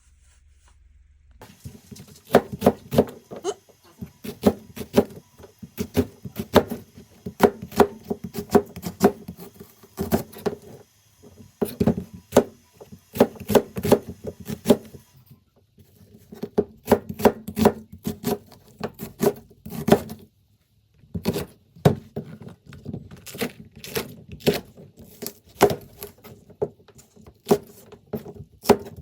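Knife chopping on a cutting board in steady runs of sharp strokes, about two a second, with a few short pauses.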